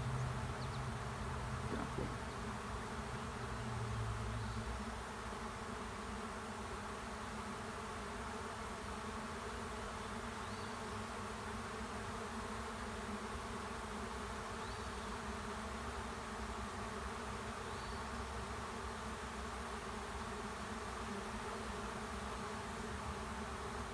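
A honey bee swarm buzzing steadily, thousands of wingbeats blending into one dense hum as the swarm moves into an empty hive. It is a little louder for the first few seconds.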